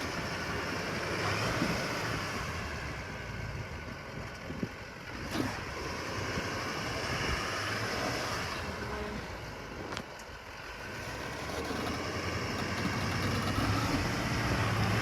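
2024 GMC Sierra 2500 AT4X heavy-duty pickup's engine running under power as the truck tries to drive out of deep mud, getting louder near the end.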